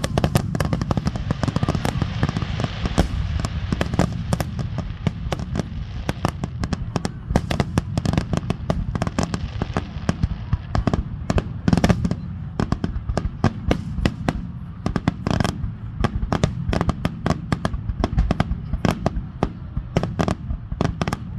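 Fireworks finale barrage: aerial shells bursting in rapid, overlapping succession, several bangs a second with no pause between them.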